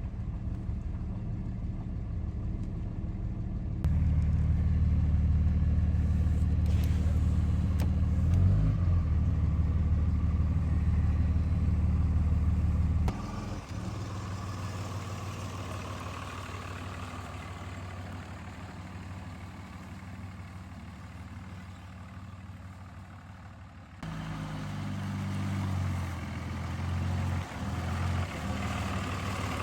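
A farm vehicle's engine running steadily with a low hum. It gets louder about four seconds in, drops back abruptly about halfway through, and picks up again near the end.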